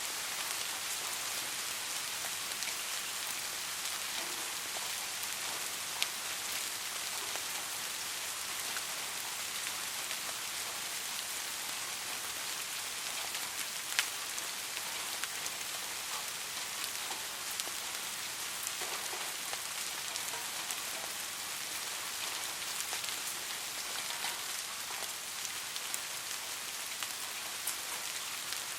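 Steady soft rain falling, an even hiss with scattered individual drops ticking, and two sharper single drips, one about six seconds in and one about halfway through.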